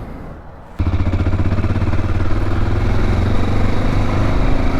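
Motorcycle engine running under way, coming in suddenly and loud about a second in, its pitch climbing gently as the bike picks up speed.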